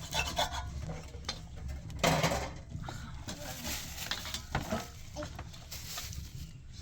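Scattered clinks and knocks of household utensils and cookware being handled, with a louder scraping rustle about two seconds in.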